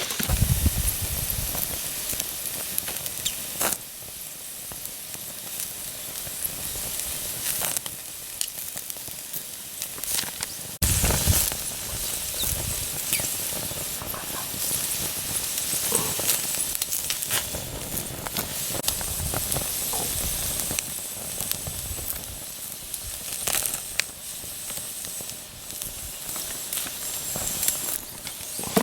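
Yakitori skewers sizzling over a wood fire on a Picogrill 398, a steady hiss with scattered sharp pops from the burning wood.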